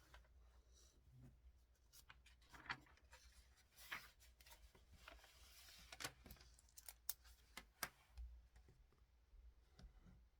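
Faint desk sounds of someone studying: a pen writing and paper rustling, with scattered small clicks and taps.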